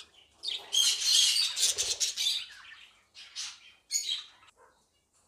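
A flock of caged small parrots chirping and chattering, densest in the first two seconds, then a few separate calls that thin out near the end.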